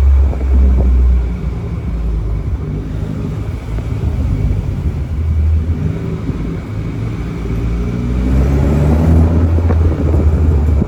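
Exhaust of a BMW 330i's turbocharged 2.0-litre four-cylinder, through a Valvetronic valved axle-back sport exhaust, running with a deep rumble. Its pitch rises gently after the middle and it gets louder near the end.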